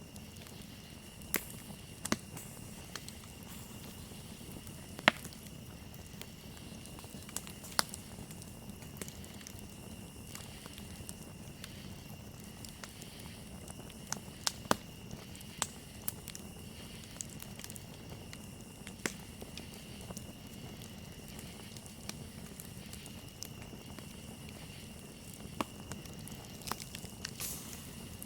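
Campfire crackling with irregular sharp pops and snaps over a low steady hiss of burning wood, under a constant high chirring of crickets.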